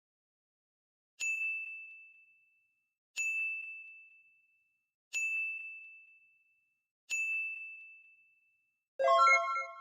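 Four identical high, single-pitch ding sound effects, about two seconds apart, each ringing out and fading. Near the end a louder chime of several notes starts.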